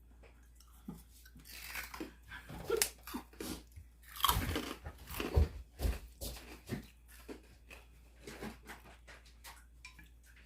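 A person eating close to the microphone: chewing and crunching mouthfuls of food, with irregular clicks and bursts of mouth noise. The noises are loudest in the middle and thin out toward the end.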